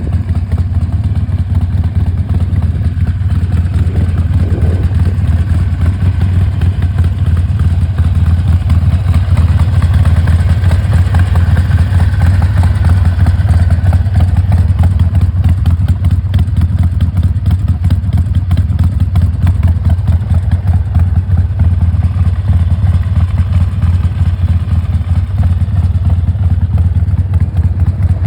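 Harley-Davidson XL1200R Sportster's 1200 cc air-cooled V-twin engine running steadily and loudly, with only slight changes in engine speed around the middle.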